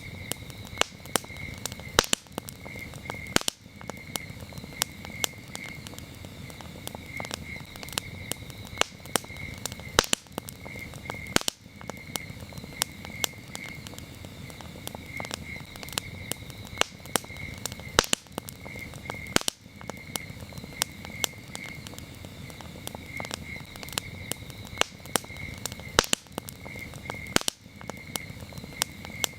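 Campfire crackling, with frequent sharp pops over a low, steady rush of burning wood. Crickets chirp throughout in short, evenly repeated pulses of a single high tone.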